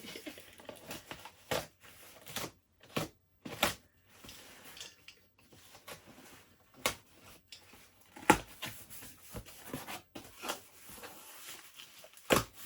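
Cardboard delivery box being opened and handled: scattered scrapes, rustles and knocks of cardboard, with two louder knocks about eight seconds in and near the end.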